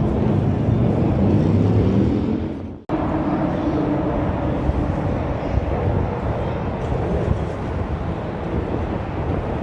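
Car engine running, its pitch climbing as it revs, then cut off abruptly about three seconds in and followed by a steadier engine drone.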